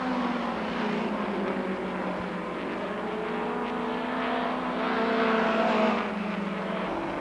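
Midget race cars' engines running on the track, several at once, their pitch slowly rising and falling; loudest about five to six seconds in.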